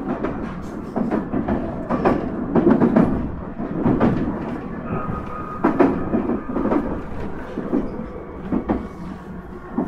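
JR East E127-series electric train running, heard from inside the car: a steady rumble with irregular clacks and thumps, about one a second, as the wheels pass over rail joints. A faint steady whine comes in about halfway through.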